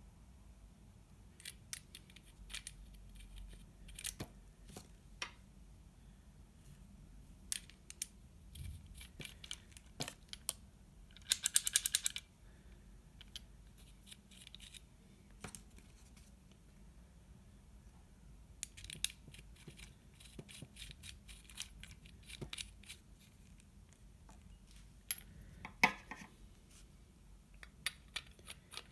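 Small hard parts clicking and tapping as they are handled at close range, with a quick rattling run of clicks about eleven seconds in and further bursts of clicks later on.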